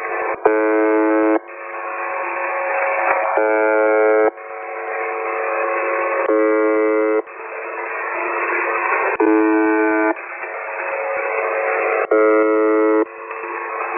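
UVB-76 'The Buzzer' shortwave station on 4625 kHz, received in upper sideband: five harsh buzz tones about a second long, repeating about every three seconds, with static hiss between them. The buzzing is the station's channel marker, which keeps the frequency occupied.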